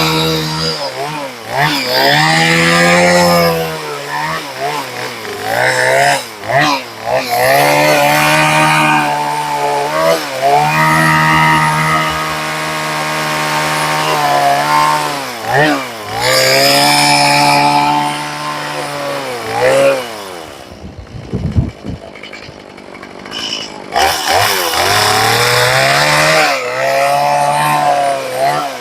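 Portable bandsaw mill's Briggs & Stratton 18 hp Vanguard engine running hard while the band blade cuts, its pitch sagging and recovering several times. About two-thirds of the way through it drops to a low idle for a few seconds, then revs back up, and it winds down at the very end.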